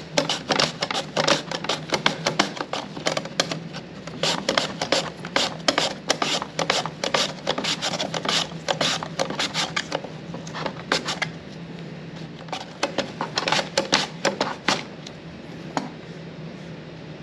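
Apple being sliced on a mandoline, a quick run of rasping strokes about two to three a second. The run pauses briefly about ten seconds in, then resumes for a few more strokes.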